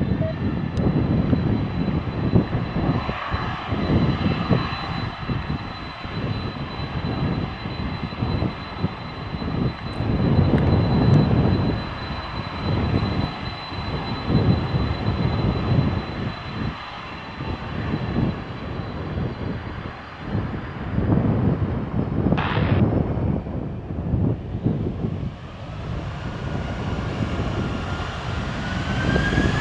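Boeing 767 freighter's jet engines running, a steady high whine over an uneven low rumble. Near the end a second whine rises in pitch as the engines spool up for the takeoff roll.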